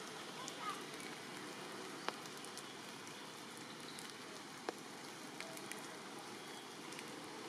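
Steady rain falling, with two sharper drops striking close by, one about two seconds in and another near five seconds.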